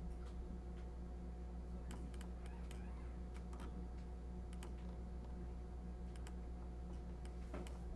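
Faint, irregular clicking of a computer mouse and keys being worked, over a steady low electrical hum.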